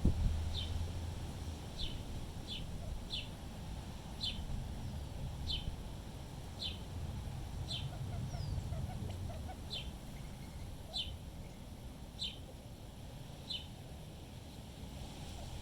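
A bird calling with short, high chip notes, about one a second, over a low rumble of wind.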